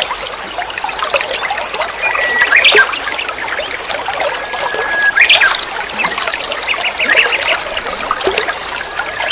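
Caged songbird singing: held whistles, each breaking into quick rising and falling chattering notes, repeating every couple of seconds over a steady trickling hiss.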